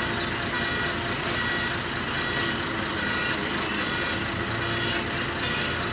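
Excavator engine running steadily, with a high electronic warning alarm beeping about once a second over it.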